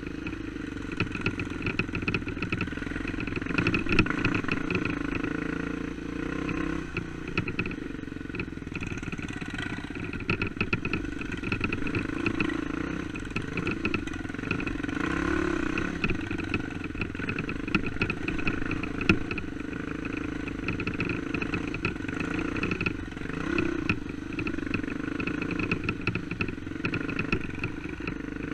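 Single-cylinder four-stroke dirt bike engine running at a low, fairly steady pace, its pitch rising and falling a little with the throttle, with sharp knocks and clatter now and then over rough ground, the loudest about 19 seconds in.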